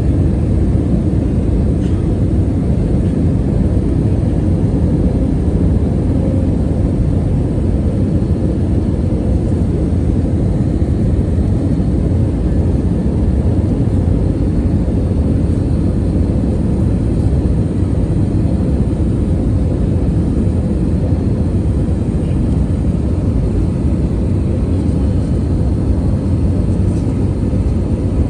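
Airliner cabin noise in flight: a steady, loud low rumble of engines and rushing air, with a faint steady hum above it.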